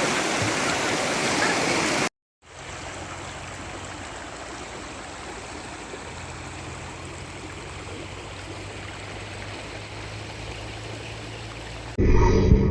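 Rainwater flooding along a street or drain, a loud steady rush. About two seconds in it cuts off, then a quieter steady rush with a low hum follows until music begins near the end.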